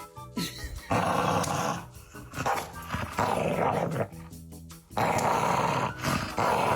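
A dog growling in three long, rough bursts, over background music.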